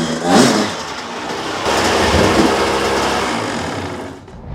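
Dirtbike engine revving, rising sharply about half a second in and again around two seconds, then fading out near the end.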